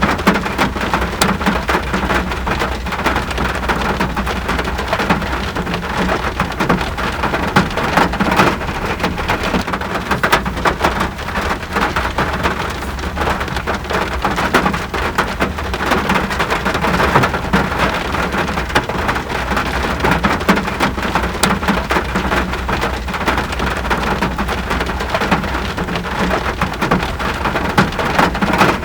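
Steady rain falling, a dense even hiss made up of countless individual drop hits, with a constant low rumble underneath.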